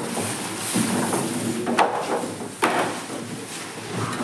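Knocking and handling clatter from work on a refrigerator, with two sharp knocks about a second apart.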